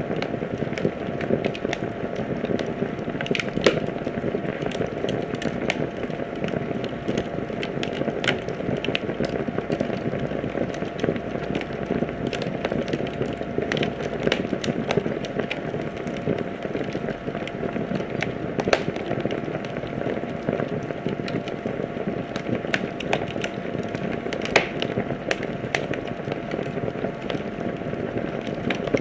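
Wood fire in a fireplace crackling steadily, with a constant rustle of small crackles and irregular sharp pops, a few of them louder than the rest.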